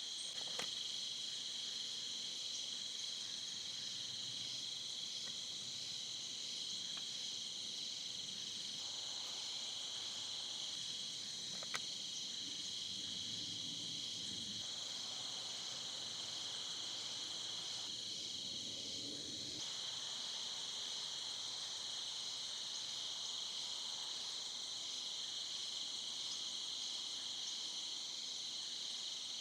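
Crickets trilling in a steady, high, pulsing chorus, with one sharp click near the middle and some low rustling around it.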